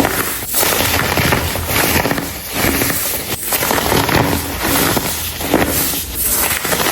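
Blocks of dyed baking soda crushed and crumbled by hand, a dense crunching crackle that comes in repeated squeezes about once a second.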